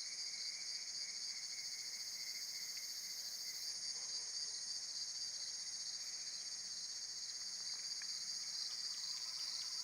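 Steady high-pitched insect chorus, an even unbroken trilling that holds constant throughout.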